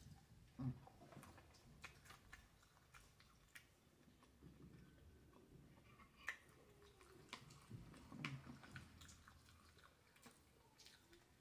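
Faint close-up chewing of soft food (French fries and a bowl of mashed potatoes with chicken), with scattered small mouth clicks and smacks.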